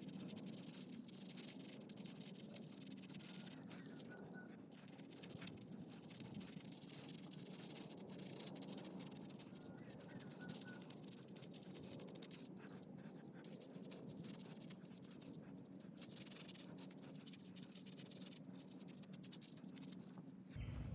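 Faint outdoor background with a steady low hum and a few brief, high, distant bird chirps scattered through it.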